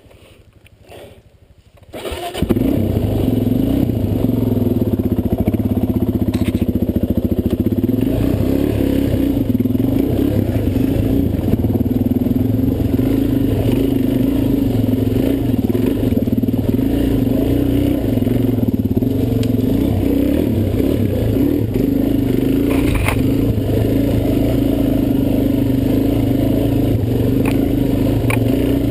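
Dirt bike engine starting about two seconds in, then running at a fairly steady pitch as the bike is ridden over a rocky trail.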